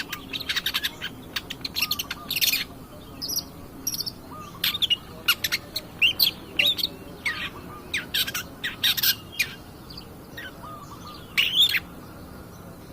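Long-tailed shrike (cendet) singing vigorously: a rapid, irregular string of sharp, high chirps and harsh notes with brief pauses. A fainter, lower short note repeats underneath.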